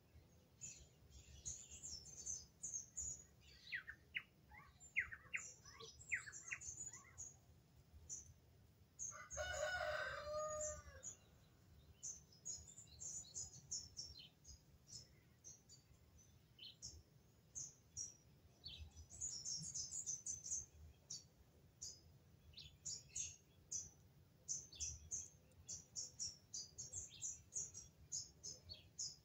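Birds calling: many short, high chirps, a few falling whistles around five seconds in, and one louder, longer call with a wavering pitch about nine seconds in.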